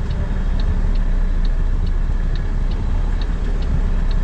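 Turn signal clicking steadily, about two clicks a second, over the steady low rumble of a truck's diesel engine heard inside the cab.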